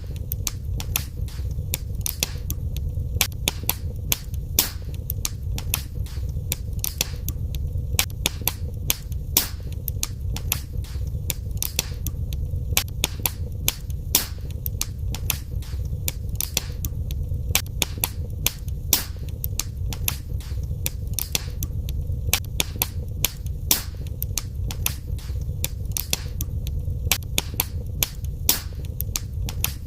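Fire in a fireplace crackling: many irregular sharp pops and snaps, several a second, over a steady low rumble of the flames.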